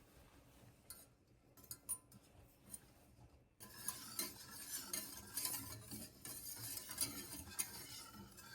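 Utensil clinking and scraping against dishes. A few light taps come first; about three and a half seconds in, a busy, continuous stirring and clinking begins, and a sharper knock falls near the end.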